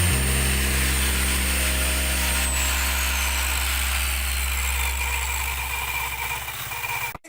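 Electric hand drill and washing machine motor generator rig running with a steady low hum. A thin high whine slides steadily down in pitch from about a third of the way in, as the machine slows. The sound cuts off abruptly at the very end.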